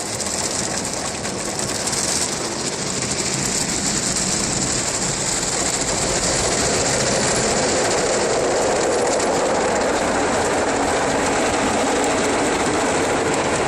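Ryko SoftGloss Maxx automatic car wash's spinning cloth brushes and foam spray working over the car, heard from inside the cabin: a steady dense hiss and rumble that grows louder over the first few seconds, then holds.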